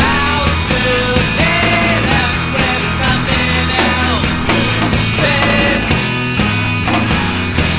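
Rock song from a 7-inch single: a full band with steady bass notes, drums, and a melody line that slides up and down in pitch.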